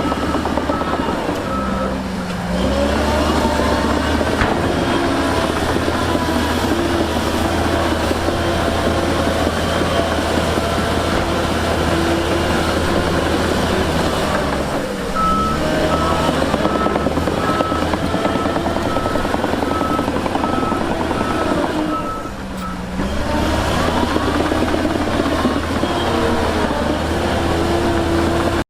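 Diesel engines of heavy earthmoving equipment running and revving up and down, with a reversing alarm beeping in an even on-off pattern at the start and again for several seconds past the middle.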